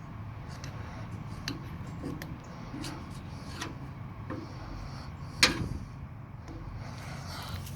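Scattered light clicks and knocks of parts and tools being handled during a throttle body rebuild, with one sharper click about five and a half seconds in, over a low steady hum.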